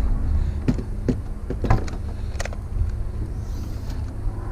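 A handful of short knocks and clacks from items being handled and moved, over a steady low rumble.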